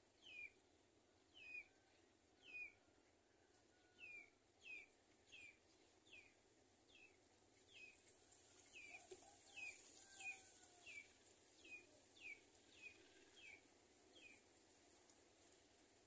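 A small bird's short chirps, each falling in pitch, repeated about once or twice a second and stopping a little before the end.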